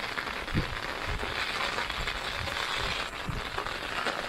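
Heavy monsoon rain falling steadily, with a few dull low thumps, the loudest about half a second in.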